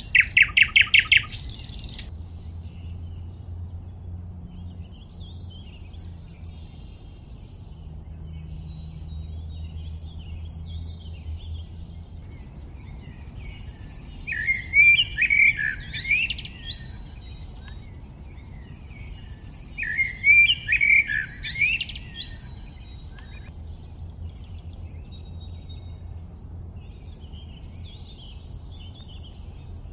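Songbirds singing: a quick run of repeated notes at the start, then two louder warbling phrases of a few seconds each around the middle, with fainter calls between them over a steady low background noise.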